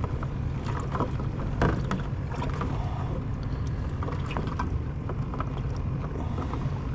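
Small fishing skiff's motor running steadily at low trolling speed, a constant low hum, with scattered small clicks and taps over it.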